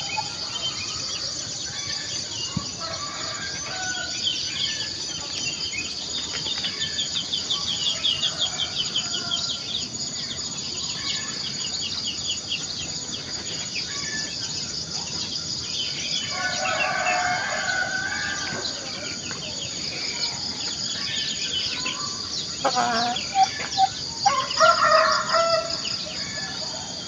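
Roosters crowing and chickens clucking, with small birds chirping over a steady high-pitched drone. A quick run of rapid chirps comes early. The crowing comes in two bouts in the second half, the loudest near the end.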